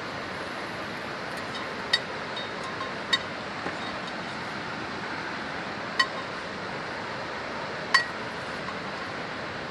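Four light, ringing clinks, spaced about one to two seconds apart, over a steady hiss.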